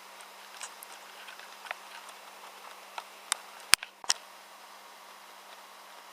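Steady hiss with scattered light ticks, and two sharp clicks a little under half a second apart near the middle.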